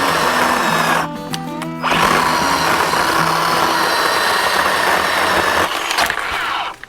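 Bauer 10-inch 20-volt cordless electric chainsaw cutting through a dead locust trunk, its motor whining over the chain's rasp. The cut eases briefly about a second in, and near the end the motor winds down in a falling whine and stops.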